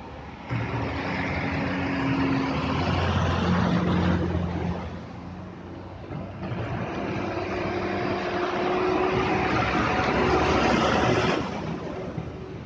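Two motor vehicles pass close by, one after the other. Each is a steady engine hum under a rush of tyre and water noise from driving through the flooded road.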